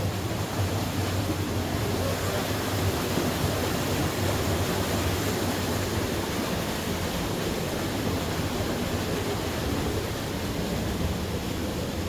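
Steady rushing of a stream flowing through a narrow sandstone gorge beneath a boardwalk.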